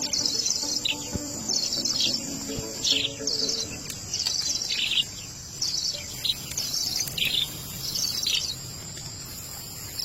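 Birds chirping in short, high, repeated phrases about once a second, some with a quick falling note.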